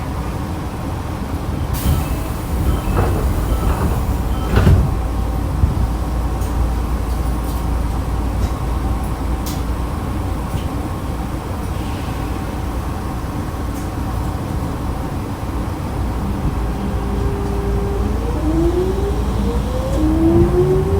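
Onboard sound of a Nankai electric train standing at a station: a steady low equipment hum with a few clunks in the first five seconds. Near the end it pulls away, its inverter and traction motors giving a stepped, rising whine.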